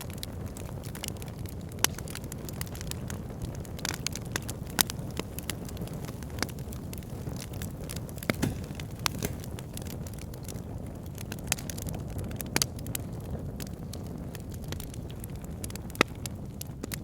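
Fire pit crackling: irregular sharp pops and snaps, a few much louder than the rest, over a steady low rumble.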